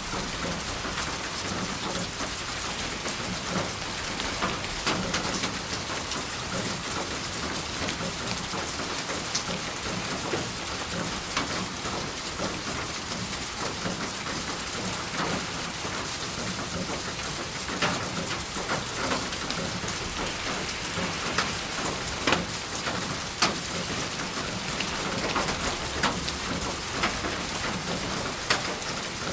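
Steady rain falling, an even hiss with scattered sharper drop ticks landing on a surface.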